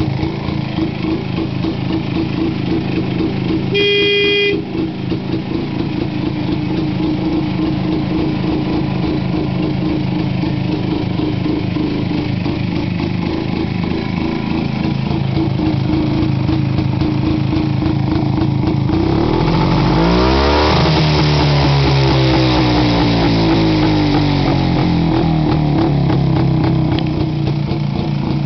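1954 Jawa Perak 250's single-cylinder two-stroke engine running steadily at idle, revved up about two-thirds of the way through and then dropping back. A short horn toot sounds about four seconds in.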